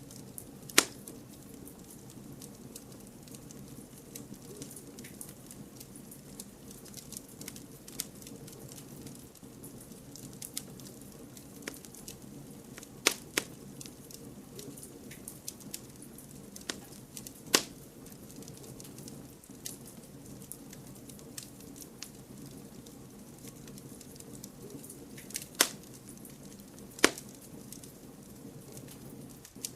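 Wood campfire burning with a steady low hiss and constant small crackles, broken by a handful of loud sharp pops as the burning wood splits, including a close pair about thirteen seconds in.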